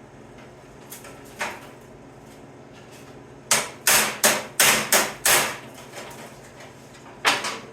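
Hand hammer striking a steel sheet-metal patch panel: a light tap and a single blow, then a quick run of six blows, then one more near the end.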